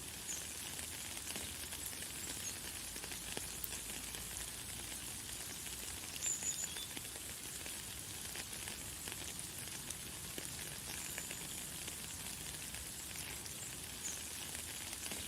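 Light, fine rain falling steadily, a soft hiss of many small drops pattering. A few brief, high bird chirps sound now and then, one of them a little louder about six seconds in.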